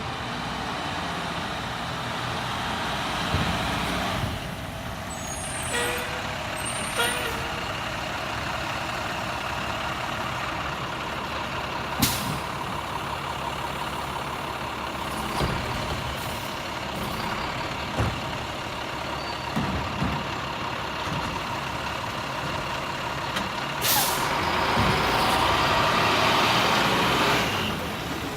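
Garbage truck running steadily, with sharp bangs about twelve seconds in and again near twenty-four seconds, followed by a louder stretch of mechanical noise near the end.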